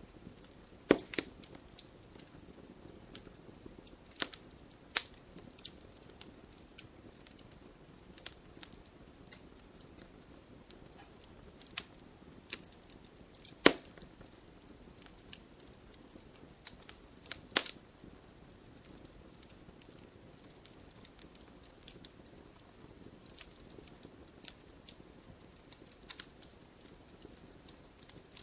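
Wood fire in a fireplace crackling, irregular sharp pops and snaps over a low steady hiss; the loudest pop comes about halfway through.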